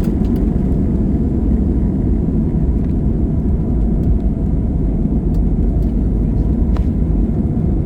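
Steady low rumble of an airliner's jet engines and airflow heard from inside the passenger cabin, with a faint click near the end.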